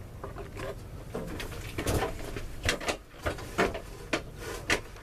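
Irregular knocks, clunks and scrapes, about nine spread unevenly, as an MTD snowblower is shifted by hand into position, its engine not yet running.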